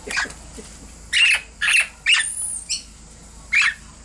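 Princess parrots squawking: about six loud, harsh calls in a burst, with a thin high whistle among them midway.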